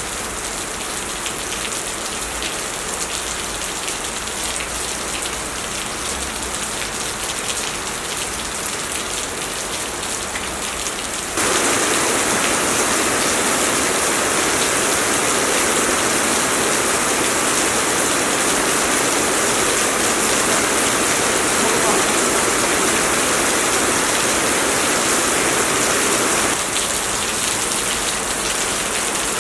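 Heavy rain pouring down, a steady dense hiss of falling water. It jumps abruptly louder about a third of the way in and steps back down near the end.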